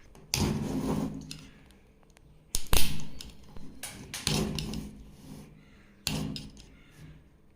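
The plastic top cover of a 12 V sealed lead-acid battery being forced off: a series of sharp plastic clicks and knocks with scraping between them, the loudest knock about two and a half seconds in.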